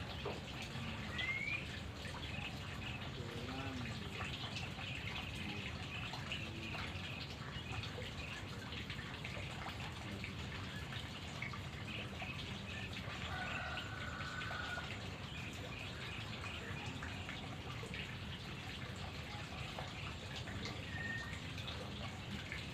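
A few faint, short whistled bird calls, one rising quickly about a second in and a held note about halfway through, over a steady patter of drip-like ticking.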